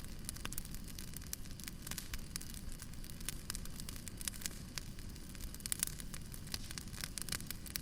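Wood fire burning, with a steady low rumble of flames and frequent irregular sharp crackles and pops of burning logs.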